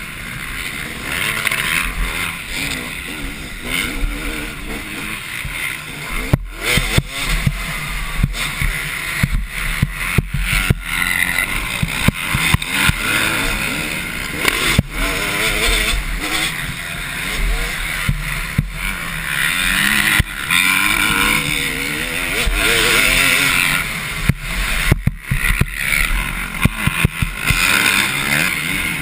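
Motocross dirt bikes racing on a dirt track, their engines revving up and down repeatedly as they accelerate and back off through the course.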